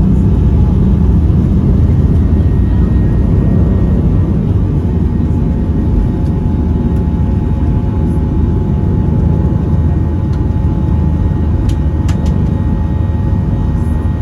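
Boeing 737-800 cabin noise: a steady, loud low rumble of the jet engines and airflow, with faint steady tones from the engines above it.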